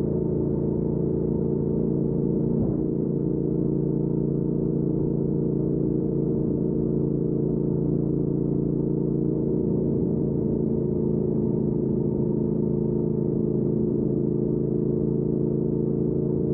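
2019 Triumph Speed Twin's 1200 cc parallel-twin engine running through a Weslake Shorty Pro exhaust at a steady cruise. The engine note holds an even pitch throughout, with no revving up or down.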